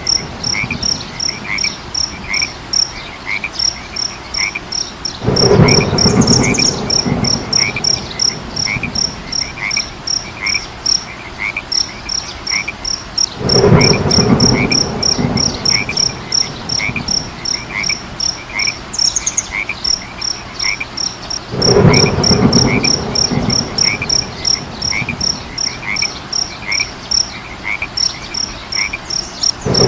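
A chorus of frogs and insects: steady rapid chirping and regular repeated frog calls, with louder swells of croaking that come back about every eight seconds.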